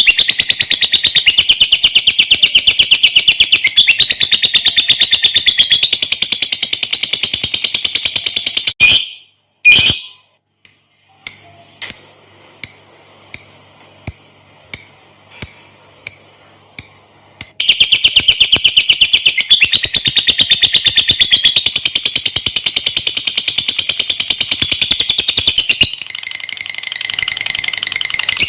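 Lovebird singing its long, rapid, high-pitched chattering trill (ngekek panjang). About nine seconds in, the trill breaks off for a string of about nine short separate calls, each roughly two-thirds of a second apart. The long trill then resumes and softens near the end.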